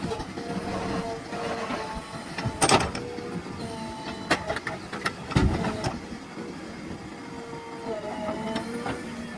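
A JCB earth-moving machine's engine running steadily with a tone that bends up and down now and then, and several sharp metallic clanks, the loudest about a third and halfway through.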